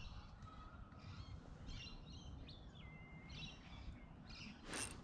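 Faint birdsong: small birds chirping in short calls, with one held whistle a little before halfway, over a low background rumble. A brief rustle or swish near the end.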